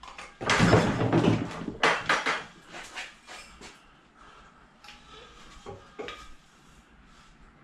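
Scrap metal pieces being handled and clattering: a loud burst of rattling in the first couple of seconds, then lighter clinks and knocks.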